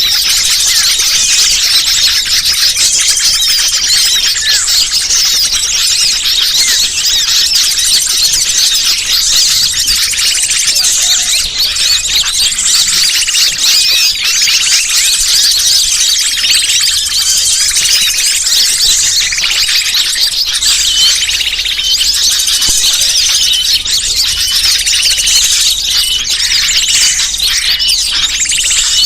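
Bird-lure recording: a dense, continuous chorus of many small birds chirping and twittering over one another, loud and unbroken.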